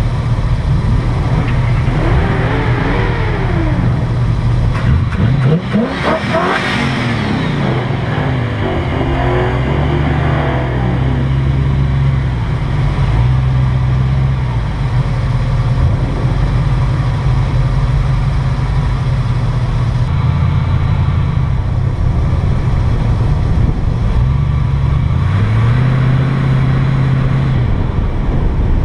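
Ford Mustang engine running at moderate, varying throttle, heard from the hood, its pitch stepping up and down as it speeds up and eases off several times; about six seconds in, a quick sweeping rise and fall in pitch.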